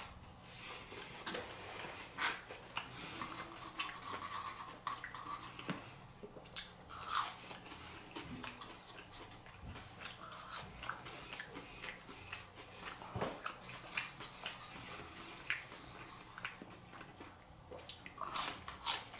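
Close-miked biting and chewing of crispy food, with irregular crunches and mouth sounds.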